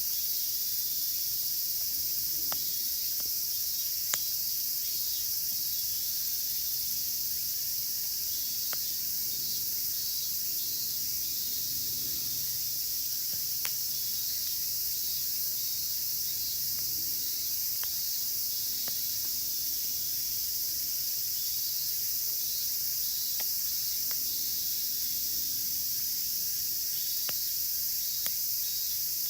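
A dense, steady, high-pitched cicada chorus (semishigure) with higurashi among it, over a wood fire in a fire pit that gives a sharp crackle or pop every few seconds.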